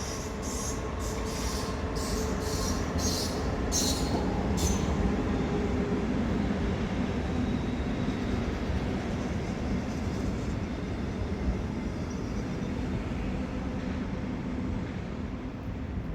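Train running through the station with a steady rumble. Over the first five seconds a series of short high-pitched bursts comes about twice a second from the wheels on the track.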